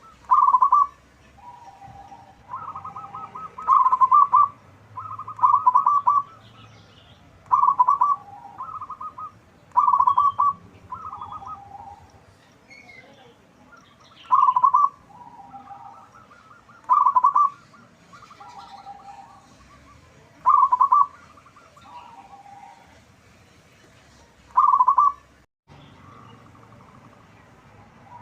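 Zebra dove (perkutut) cooing: loud, rapidly trilled coo phrases repeated every two to four seconds, with softer, lower coos between them.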